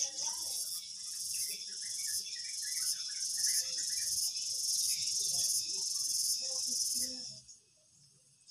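Insects chirping in a high, pulsing chorus that beats a little under twice a second, with scattered small chirps beneath, cutting off suddenly about seven seconds in.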